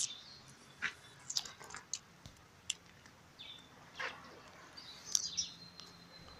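Birds chirping: several short, high-pitched chirps spread through, with a falling call about four seconds in and a thin held whistle just after five seconds.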